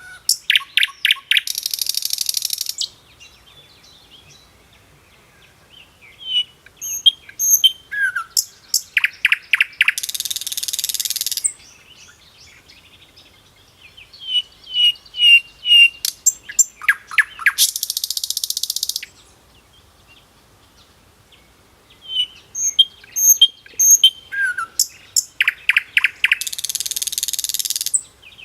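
A bird singing the same song phrase about four times, roughly every eight seconds. Each phrase is a run of short high chirps and quick notes ending in a loud, buzzy trill of a second or so, with quiet gaps between phrases.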